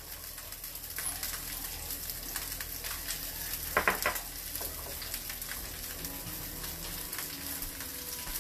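Salmon fillets sizzling and crackling as they fry in a nonstick pan, with minced garlic just sprinkled in. A brief knock about four seconds in, as a small dish is set down on the counter.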